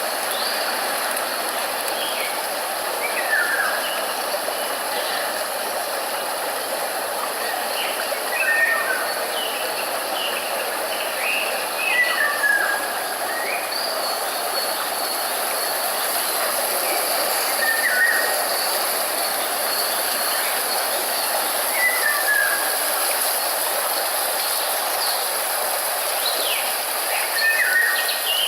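A steady hiss of noise with a bird calling in short chirps every few seconds.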